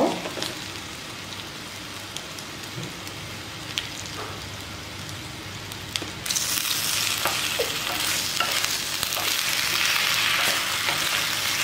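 Elephant foot yam slices sizzling in hot oil in a clay pot, at first a low even sizzle with a few ticks. About six seconds in the sizzle turns suddenly louder and hissier as a wooden spatula stirs the pieces, scraping against the pot.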